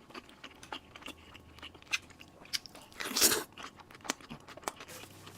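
A person biting and chewing food close to the microphone: small wet clicks of chewing, with one louder crunchy bite about three seconds in.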